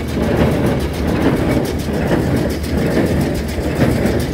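Oliver 770 tractor's six-cylinder engine running under load, driving a John Deere square baler whose plunger and pickup make a steady rhythmic clatter, a pulse a little under once a second.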